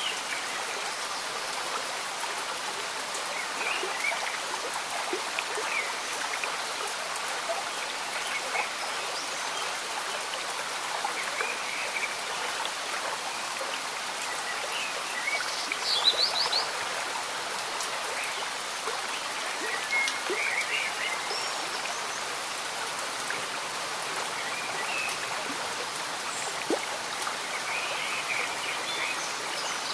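Slow-moving stream bubbling and gurgling under steady gentle rain, with scattered short high-pitched sounds throughout and a brief, louder cluster of them about sixteen seconds in.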